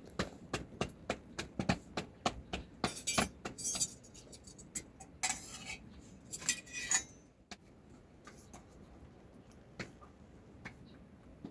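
Metal dishes and utensils clinking and knocking, a quick run of strikes for the first several seconds, then only a few scattered clinks. A couple of short scraping sounds come in the middle.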